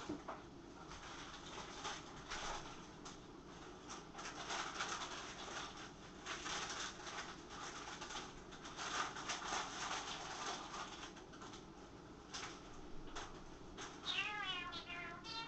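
Water splashing and a plastic chip bag crinkling as it is rinsed out of crumbs, in irregular bursts. Near the end, a short high wavering cry lasting about a second.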